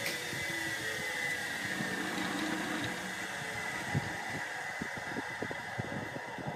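A motor-driven machine running with a steady high whine, joined from about four seconds in by irregular knocks.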